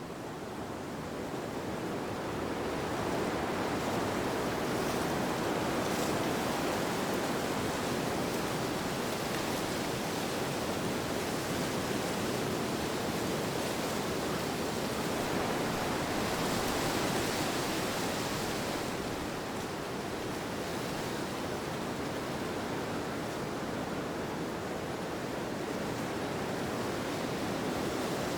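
Wind ambience: a steady rushing noise that swells over the first few seconds and again a little past the middle, then eases slightly.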